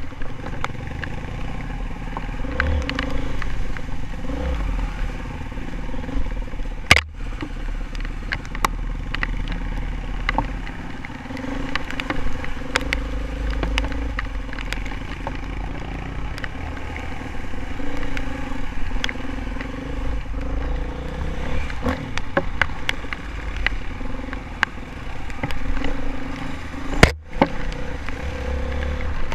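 Honda CRF450R dirt bike's single-cylinder four-stroke engine running while being ridden over rough trail, the throttle rising and easing, with frequent clattering knocks. Two sharp thumps, one about seven seconds in and one near the end.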